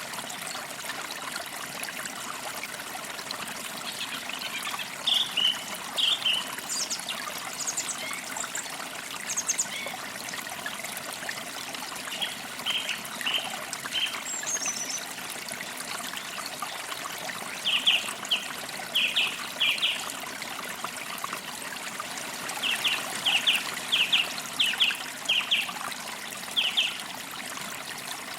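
Forest creek trickling steadily over stones, with small birds chirping: quick groups of short, sharp chirps, the longest runs near the middle and in the last third, and a few higher thin notes, one falling, early on the recording's first half.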